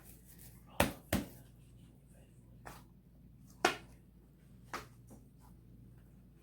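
Homemade slime being handled and squeezed, giving a few sharp clicks and pops: two close together about a second in, a smaller one, then two more near the middle.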